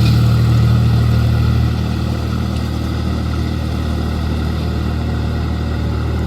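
Swaraj 744 tractor's diesel engine running steadily, a little quieter from about two seconds in.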